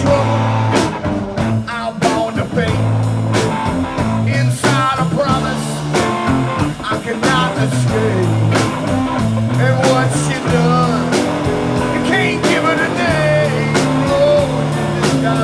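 Live blues-rock band playing an instrumental passage: a lead guitar line with wavering, bent notes over bass and drums keeping a steady beat.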